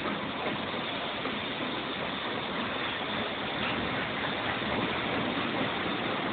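Indian Railways passenger train running along the track, a steady running noise of wheels on rails heard from the side of the moving coach.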